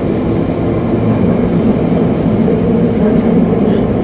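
Tokyo Metro 7000 series subway car running at speed: a steady rumble of wheels on rail with the hum of its Hitachi IGBT-VVVF traction motors, building slightly in loudness.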